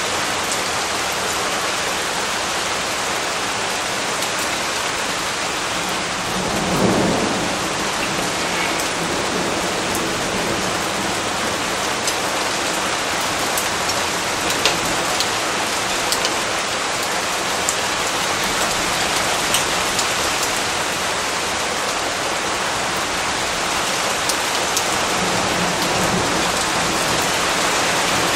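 Steady rain falling, with scattered sharper drop hits. A low roll of thunder swells up about seven seconds in.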